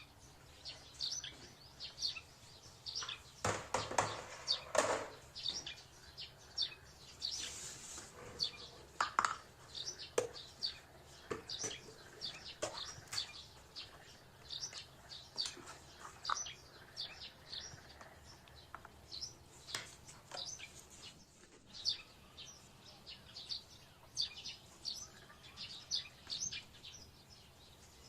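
A small bird chirping over and over in quick series of short, high chirps, with a brief clatter about four seconds in.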